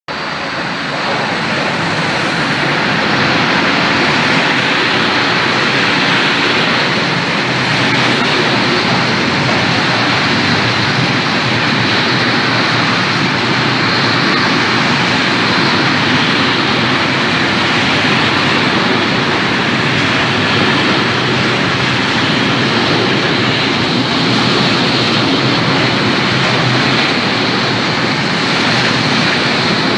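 Freight train rolling past at a station, a loud steady rush of wheels on rails.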